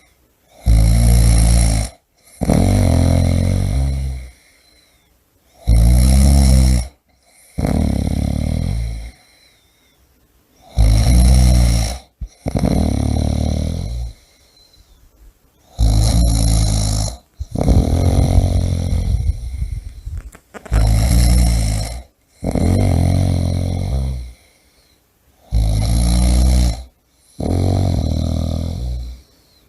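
A person snoring heavily in a steady rhythm. About every five seconds comes a short, loud snore, then a longer one that fades away.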